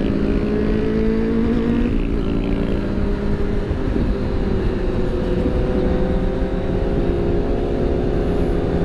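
Big-bike motorcycle engine running at cruising speed, its pitch climbing slowly, with wind rumbling on the microphone.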